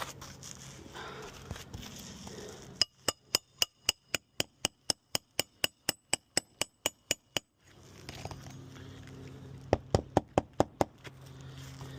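Hammer driving roofing nails to fasten a new shingle: a steady run of about eighteen sharp, ringing strikes, then a quicker burst of about seven more near the end.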